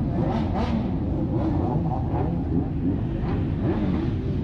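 Four-cylinder motorcycle engines running at low revs, a steady rumble with the pitch rising and falling slightly.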